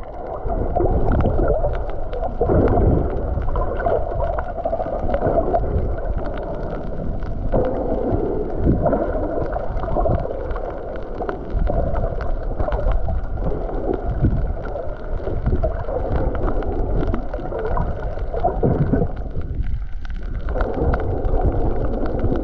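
Muffled gurgling and sloshing of water against a camera that is in or under the water, with a steady run of small crackles.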